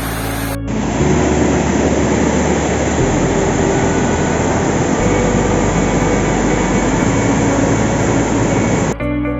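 Loud, steady roar of a waterfall's falling water, cutting in suddenly about half a second in and cutting off abruptly shortly before the end, with faint background music underneath.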